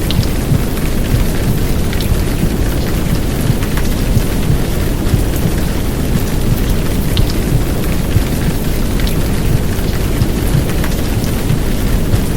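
Heavy downpour rain, a steady dense rushing noise with a deep low rumble and scattered sharp drop ticks, mixed as a womb-sound white-noise track for settling babies.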